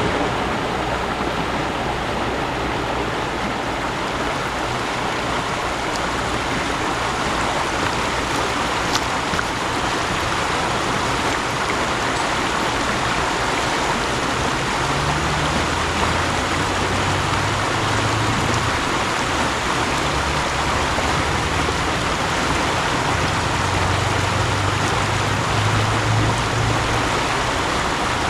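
Mountain stream flowing: a steady rush of water, with a low rumble that swells in and out in the second half.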